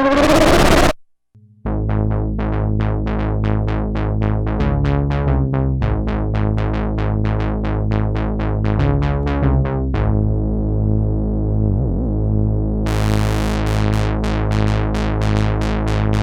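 Sequential Prophet 10 rev 4 analog polysynth playing presets dry, without effects. A bright, noisy patch cuts off about a second in. After a brief gap, a new patch starts: a steady low bass and chord under a repeating plucked pattern of about three notes a second. Near ten seconds the sound turns dull as its top end drops away, then it turns bright again near thirteen seconds.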